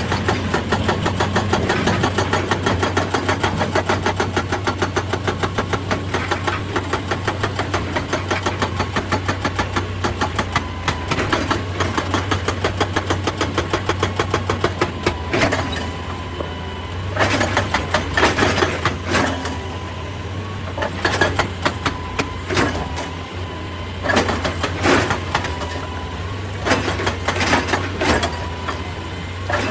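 Excavator's diesel engine running steadily under load, with a rapid even clatter for about the first half, then irregular loud knocks from the machine working rock.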